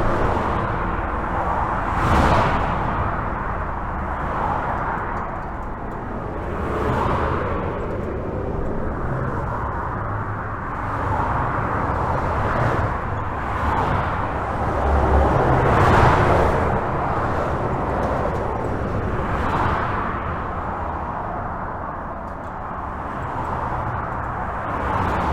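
Steady highway traffic heard from under a bridge: a continuous tyre-and-engine hiss with a low rumble, individual vehicles swelling and fading past every few seconds.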